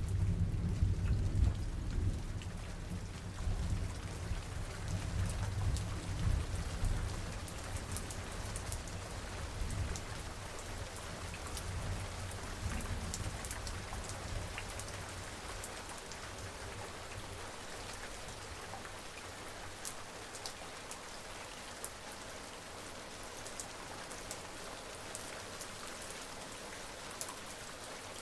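Steady rain with scattered close drop ticks, under a low rumble of distant thunder that dies away over the first several seconds.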